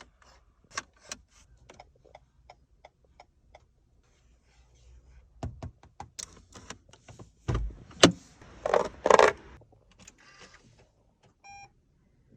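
Car fittings being handled: a run of sharp clicks and knocks, a heavy low thump about seven and a half seconds in, two brief rustling sweeps just after, and a short electronic beep near the end.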